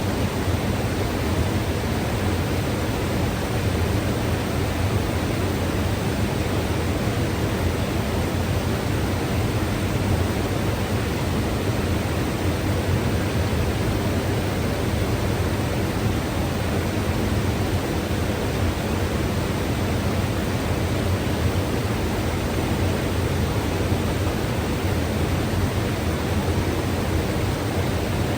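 Mountain river rushing steadily over its bed, an even, full rush of water with a strong low rumble and no change in level.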